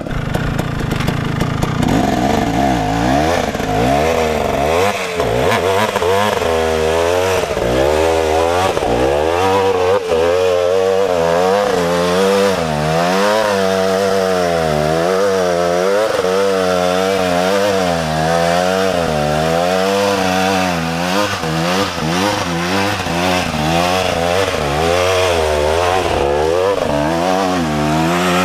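KTM 300 two-stroke dirt bike engine revving hard, its pitch rising and falling about once a second as the throttle is worked on and off.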